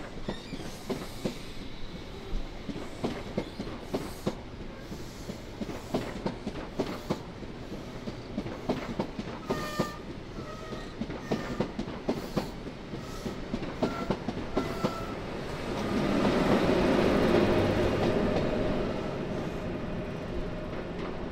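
InterCity Mk3 coaches rolling out of the station, their wheels making an irregular clickety-clack over the rail joints, with a few short high squeaks midway. About sixteen seconds in, a louder steady rushing rumble swells for a few seconds as the propelling Class 90 electric locomotive passes, then eases off.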